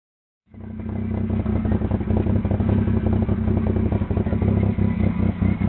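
A vehicle engine running steadily close by, with a fast, even pulsing; the sound cuts in abruptly about half a second in.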